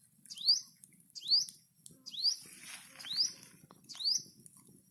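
A bird calling repeatedly: five short, rising notes, evenly spaced just under a second apart.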